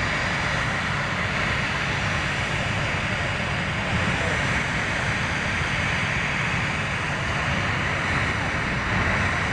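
Jet airliner engines running, a steady rushing noise with a low rumble underneath that holds level throughout.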